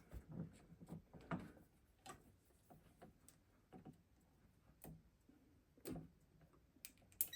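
Near silence broken by faint, irregular small clicks and taps, about one or two a second, with a slightly louder click about a second in and another near six seconds.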